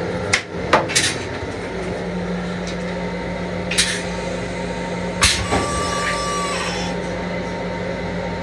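Steady hum of a moving M7 electric railcar heard inside its small restroom, broken by several sharp knocks and clicks: three in the first second or so, and others about four and five seconds in. A short steady high tone sounds for about a second just after the last knock.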